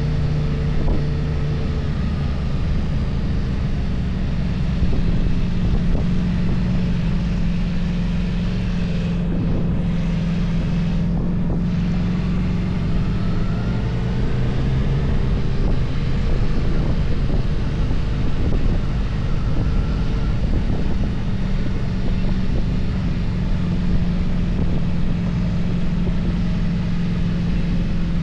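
Motorcycle engine running steadily at road speed, with wind rushing over the microphone; the engine note shifts up a little about two seconds in.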